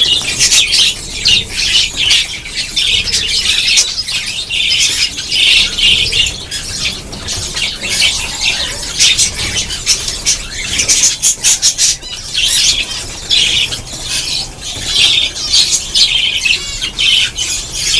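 A flock of caged pet parrots chattering and squawking, many short shrill calls overlapping without a break.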